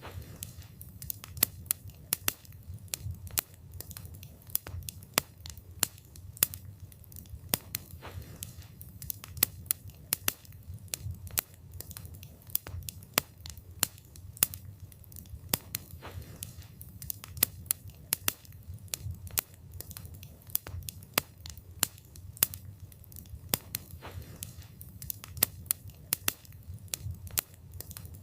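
Wood fire burning, the wood crackling and popping several times a second at irregular intervals over a low, steady rumble of the flames.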